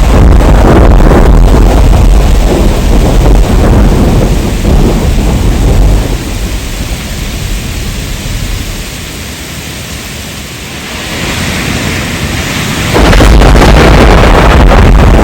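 Heavy rain with loud, deep rolling thunder. The thunder fades about six seconds in, leaving mostly the hiss of rain, then a loud rumble cuts back in suddenly near the end.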